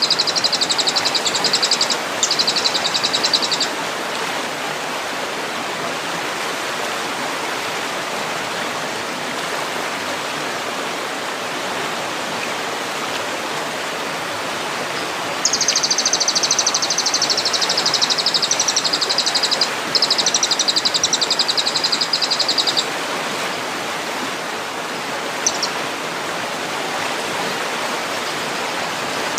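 Songbird giving high, fast buzzing trill phrases: two at the start, two longer ones about halfway, and a brief note near the end. They sound over a steady rushing noise like a stream.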